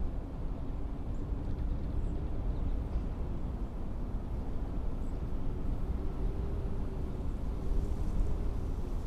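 Blizzard wind blowing in a steady low rumble, with a faint wavering howl running through it.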